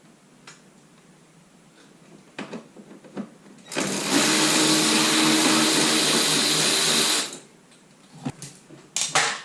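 A power tool's motor running steadily for about three and a half seconds, spinning out a bumper bolt, with small knocks and clicks of handling before and after.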